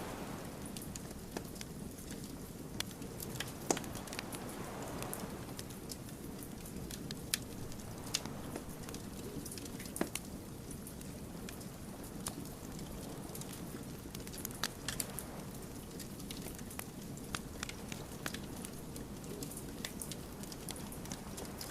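Wood fire crackling, with irregular sharp pops and snaps over a steady low rush of burning logs.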